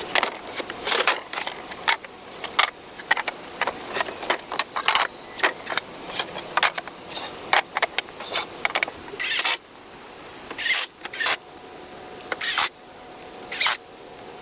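Irregular sharp clicks, knocks and short scrapes of hand work on wood, about two a second, thinning out after about nine seconds.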